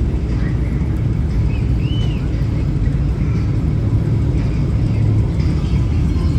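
Low, steady rumble of a vehicle engine running, with a brief high rising-and-falling chirp about two seconds in.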